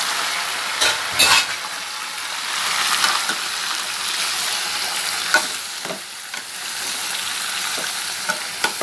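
Squid frying in hot oil with garlic and onion, a steady sizzle, as a ladle stirs it. The ladle knocks and scrapes against the pan, loudest about a second in.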